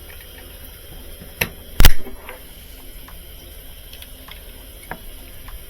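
Two sharp knocks about half a second apart, the second one loud, and a lighter click near the end: tools and parts being handled during washer reassembly.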